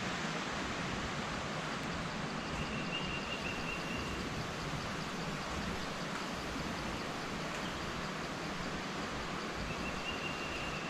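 Steady rushing of a waterfall, an even noise with no rhythm. A thin high tone is heard twice over it, once a few seconds in and again near the end.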